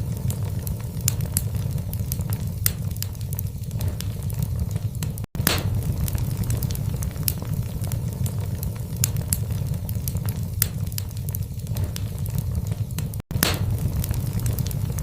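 Wood logs burning in a fireplace: a steady low rumble of flame with frequent irregular sharp crackles and pops. The sound cuts out for an instant twice.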